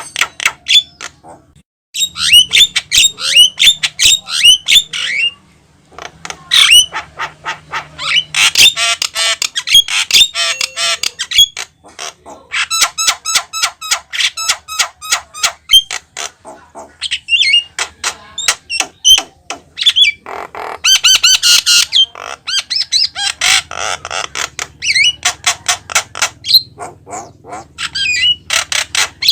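Javan myna (jalak kebo) singing vigorously: a rapid chattering run of harsh squawks, sharp clicks and quick rising whistled notes, in bursts broken by short pauses.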